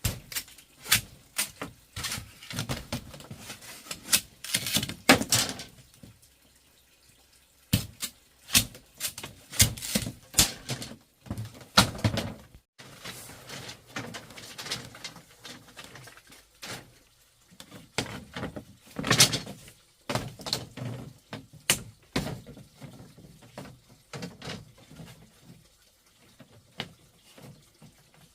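Irregular knocks, clacks and thuds of objects being handled and set down, some in quick runs, with short quiet gaps between them.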